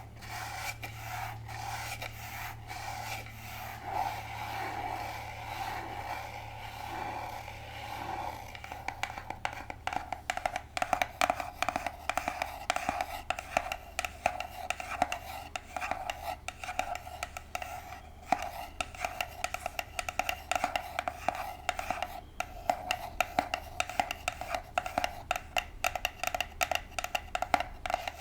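Long artificial nails scratching on a box close to the microphone, then about ten seconds in turning to quick, irregular tapping that runs on to the end.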